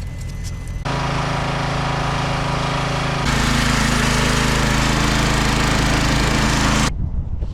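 A tow truck's engine running steadily at raised speed. It gets louder suddenly about a second in, louder and harsher again about three seconds in, then cuts off abruptly near the end.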